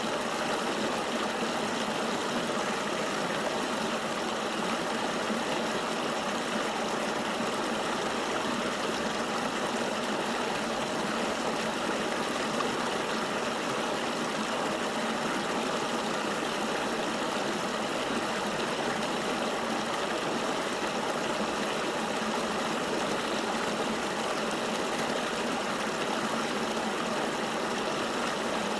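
River water flowing steadily, an even rush of moving water with no deep rumble and no change in level.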